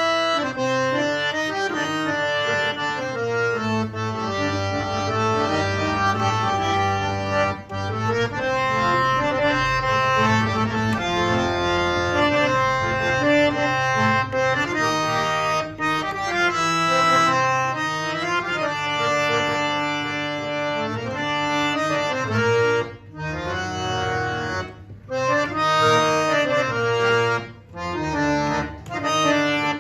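Harmonium played solo: a free-reed melody moving note to note over a held lower chord, with a few short breaks between phrases in the last third.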